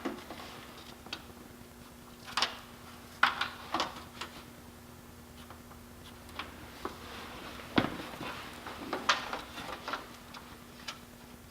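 Scattered light clicks and taps, a handful of them spaced a second or more apart, from a tape measure and pencil being handled against the workbench's wooden legs while they are measured and marked, over a faint steady hum.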